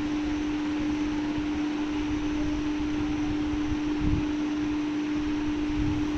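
A steady machine hum: one constant low tone over an even hiss, with a brief low thump about four seconds in.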